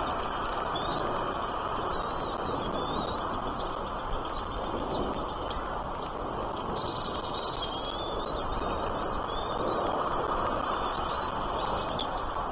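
Small birds chirping in short, quick notes that rise and fall, with a brief buzzy trill about seven seconds in, over a steady rushing background noise.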